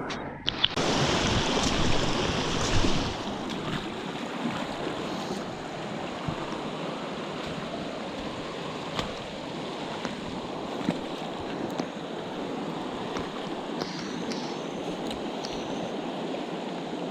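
Water of a small stream rushing steadily. It is a little louder and brighter for the first three seconds, then settles.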